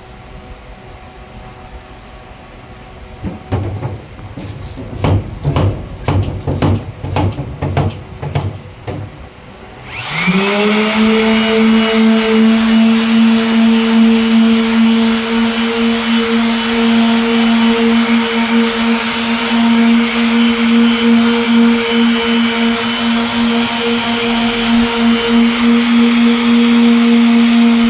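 A series of irregular knocks and taps, then about ten seconds in an electric sander's motor starts, winds up quickly and runs at a steady speed with a hiss. This is a headlight lens being machine-sanded with 600-grit paper.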